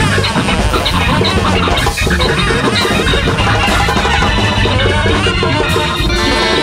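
Large jazz big band playing live at full volume, with the drum kit to the fore and guitar in a busy groove.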